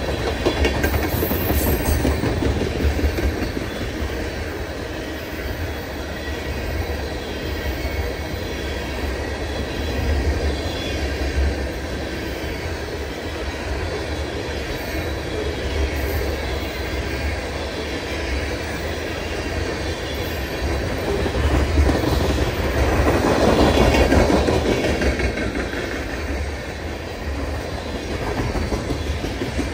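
Freight train cars rolling past, a steady low rumble with a rhythmic clatter of wheels over the rails, swelling louder for a few seconds about three quarters of the way through.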